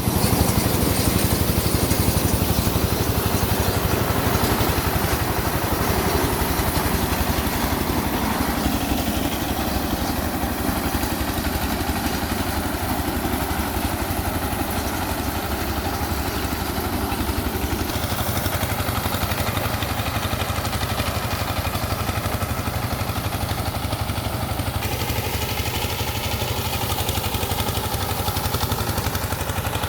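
An engine running steadily at a constant speed. Its tone shifts abruptly about a third of the way in, about two thirds in, and again near the end.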